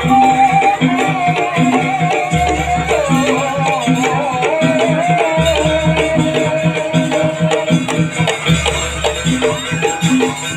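Traditional Indonesian percussion-ensemble music for a barong dance: a held, wavering high melody line over a steady pulse of beaten instruments and rattles, with a deep low sound that comes and goes every few seconds.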